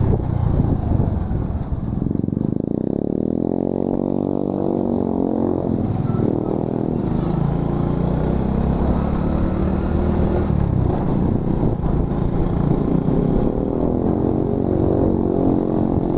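Motorcycle engine running under way, its note climbing about two seconds in as it speeds up, then holding steady.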